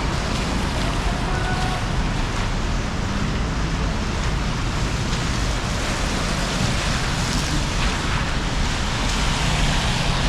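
Steady rushing street noise of traffic on rain-wet roads, with rain and wind on the microphone.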